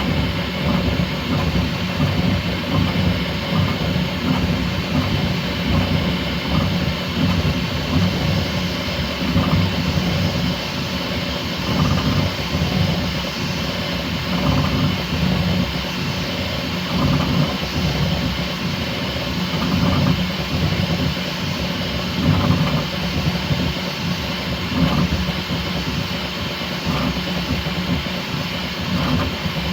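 Bambu Lab X1C 3D printer printing at its top speed setting: stepper motors buzz and whir with the rapid, constantly changing toolhead moves over a steady hiss of cooling fans.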